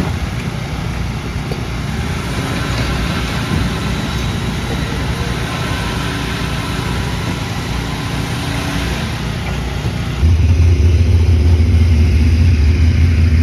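Motor vehicle running, a steady noise with a low drone that grows stronger and louder about ten seconds in.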